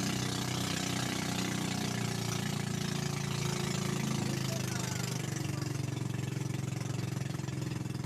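Motorboat engine running steadily, its pitch dipping a little about halfway through.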